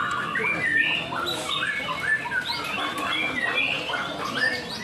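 Several caged white-rumped shamas singing at once: a dense, overlapping stream of short whistled and chattering notes.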